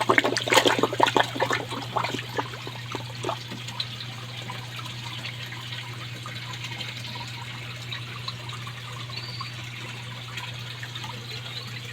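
Koi pond water splashing for the first couple of seconds, then settling into a steady trickle, over a constant low hum.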